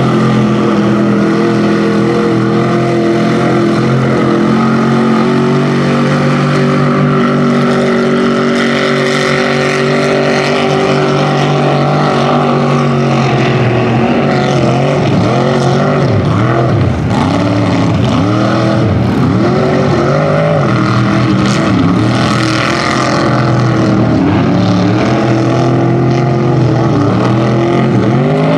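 Rear-engine Dodge mud truck's engine running hard under load in a mud bog: first held at steady high revs, then from about halfway through revving up and down again and again as the throttle is worked.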